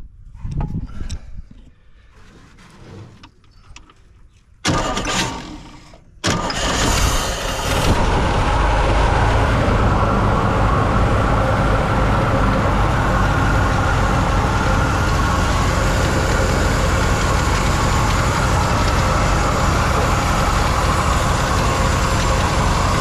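1970 Chevrolet C-40 truck's engine cranked briefly about five seconds in, then starting a second later and running steadily.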